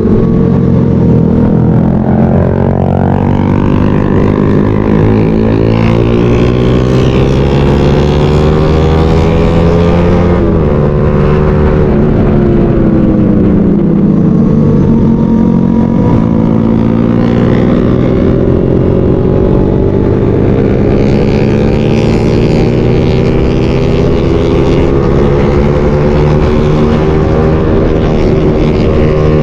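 Motorcycle engine heard from the rider's own bike, changing speed as it rides: its pitch climbs, falls away steeply about ten seconds in, then rises slowly again through the rest of the stretch, over steady road and wind noise.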